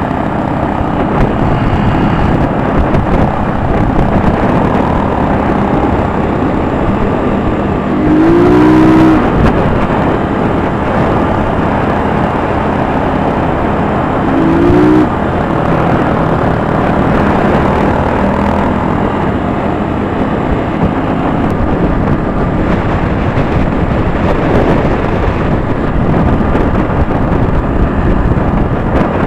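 Motorcycle riding at road speed: a steady engine note under heavy wind rush on the microphone, with two brief swooping changes in engine pitch about a third and halfway through.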